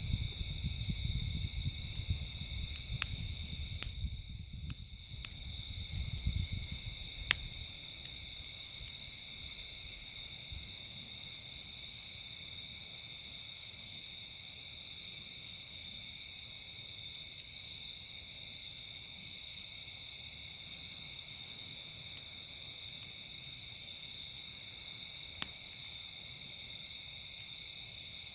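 A steady, high-pitched chorus of night insects, with a few sharp pops from a crackling wood campfire. A low rumble fades out after about six seconds.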